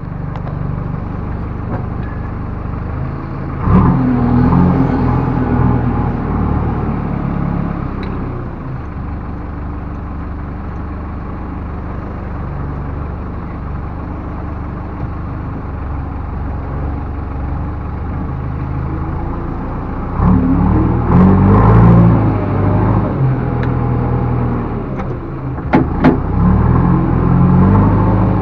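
Backhoe loader's diesel engine running, revving up briefly about four seconds in and working harder from about two-thirds of the way through, with a few metallic knocks near the end.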